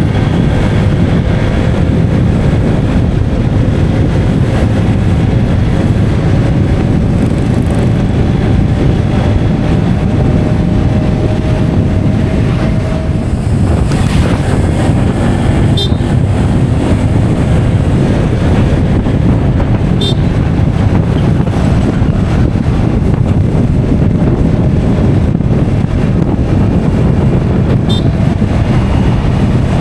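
Loud, steady rumble of a moving motor vehicle on the road, with wind on the microphone. A faint engine tone rises slowly in pitch over the first dozen seconds, and there are a few short ticks later on.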